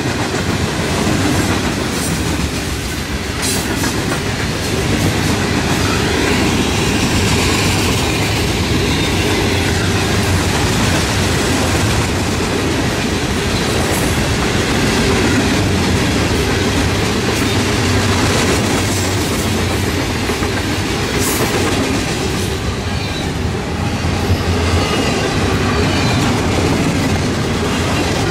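Freight train cars rolling past close by, open-top hopper cars giving way to intermodal container well cars: a steady, loud wheel-on-rail rumble with clickety-clack over the rail joints and a few sharp clanks.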